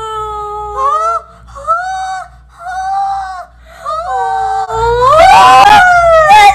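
High-pitched human wailing: about five long, drawn-out squealing cries, the last one the loudest and harshest scream.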